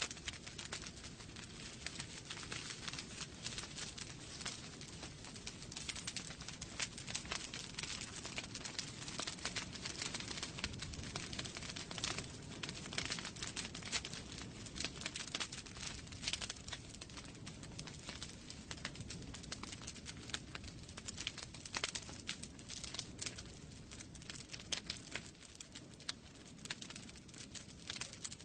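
Wood fire burning in a fireplace, the logs crackling with a dense, irregular stream of small pops over a steady low rumble.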